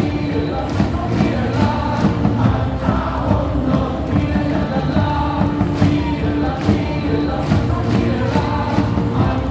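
Baseball stadium crowd singing a cheer song together over loudspeaker music with a steady beat.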